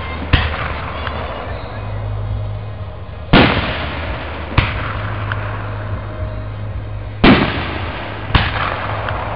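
Aerial fireworks shells bursting overhead: five sharp bangs, the loudest about three seconds in and again about seven seconds in, each trailing off in a short echo.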